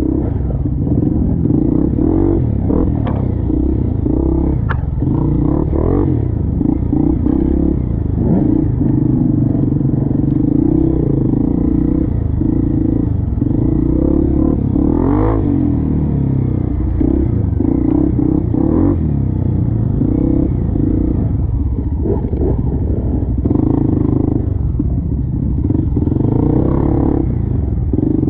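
Off-road trail motorcycle engine running, the throttle opened and closed over and over, with clattering and knocks from the bike working over rough ground.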